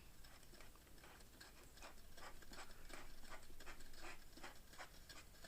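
A light bulb being screwed into its lamp socket by hand: a quick, faint series of small scraping clicks, about three or four a second.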